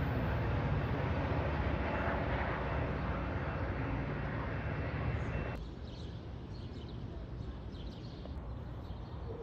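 Diesel-hauled Metra commuter train pulling away, a steady rumble of engine and wheels that slowly fades. About five and a half seconds in it cuts off abruptly to a quieter outdoor background.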